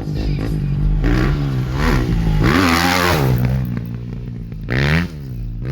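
Husqvarna dirt bike engine revving hard, its pitch climbing and falling several times with a quick sharp blip near the end.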